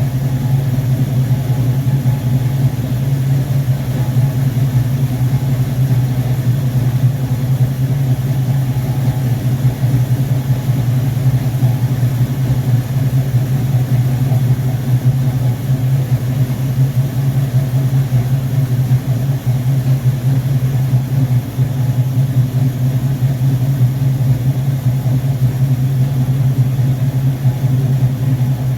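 Car V8 idling steadily, fed by a freshly rebuilt Rochester Quadrajet four-barrel carburetor on its test run.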